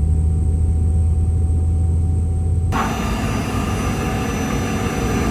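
Steady cabin noise of a Boeing 717-200 airliner on the ground, a low hum. About halfway through it changes abruptly to a brighter, whining noise with several steady high tones.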